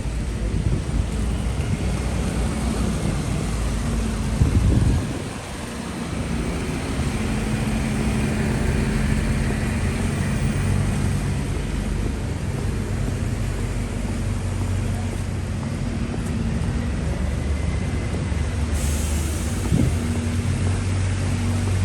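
Road traffic: vehicle engines running with a steady low hum, the noise dipping briefly about five seconds in.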